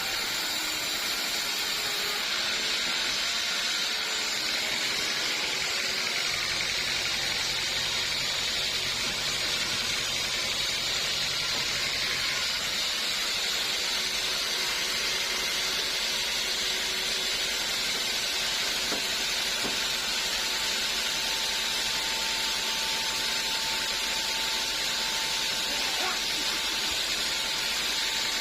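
Sawmill saw running with a steady hissing noise that holds at one level throughout; a faint steady tone joins in past the middle.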